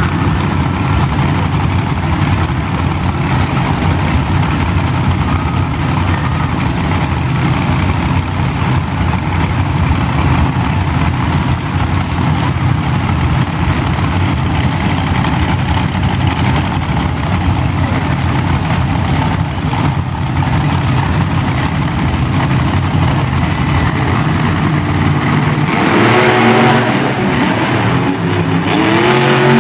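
Monster truck engines running loudly at a steady pitch, then revving up about four seconds before the end and again right at the end.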